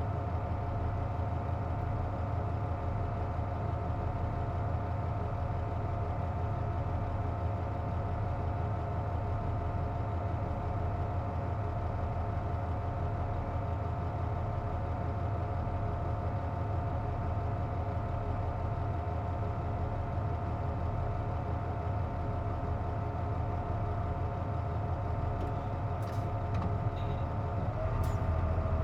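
Inside a Nissan Diesel JP mid-size bus with its air conditioning running: a steady low engine rumble under several steady whining tones, the unusual noise the air conditioner makes on this bus. A few light clicks come near the end, and one tone shifts in pitch at the very end.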